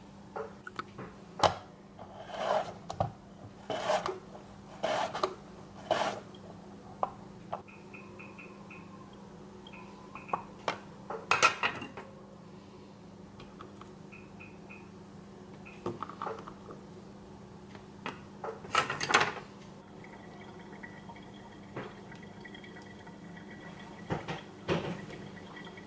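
Dishes and cutlery clinking and knocking in irregular clusters during kitchen work, over a steady low hum.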